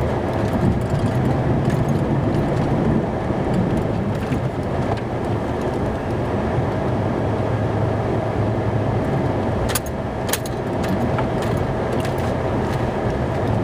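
Snowplow truck driving, its engine running with a steady low drone and a faint steady whine. A few sharp knocks come near ten seconds in.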